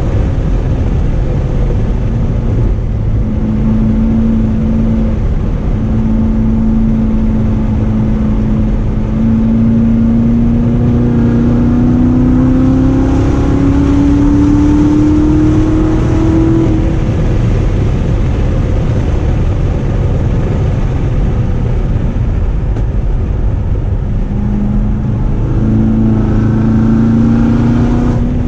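2016 Corvette Z06's supercharged V8 running under steady load on the move: a constant low exhaust drone with an engine note that climbs slowly in pitch from a few seconds in until about midway, drops away, and rises again near the end.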